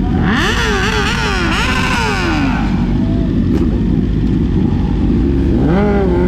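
A car engine revved in several quick throttle blips, its pitch climbing and dropping about four times in two seconds, then revved up once more near the end, over a steady low rumble of idling engines.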